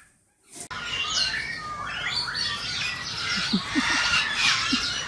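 Many birds chirping and squawking together in quick, overlapping short calls, starting about half a second in after a brief silence, with a few short low notes in the middle.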